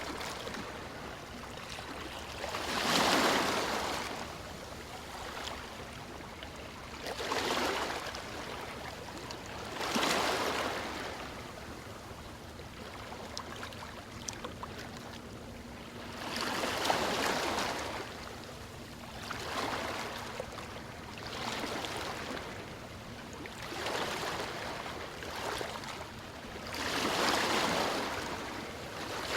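Ocean waves washing in, each one swelling to a hiss and falling away; about eight waves come in irregularly, a few seconds apart.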